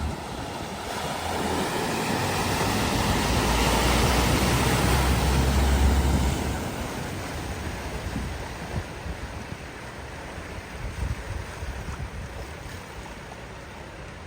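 Ford Fiesta ploughing fast through deep floodwater at a ford: a rush of splashing water with a low rumble that builds to its loudest about six seconds in, then dies down to a steady wash of water and wind.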